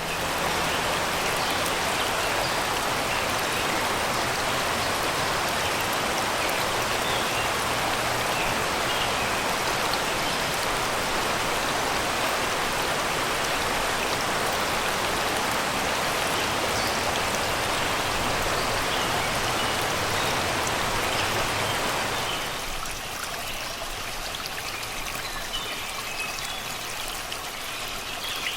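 Shallow river water rushing and babbling steadily over rocks and stones. About 22 s in it turns quieter and softer. Faint birds chirp now and then in the background, most noticeably near the end.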